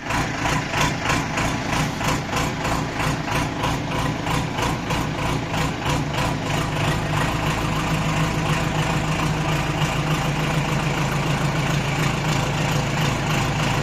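Diesel engine of a JCB machine idling, pulsing at about three beats a second for the first half, then running more evenly.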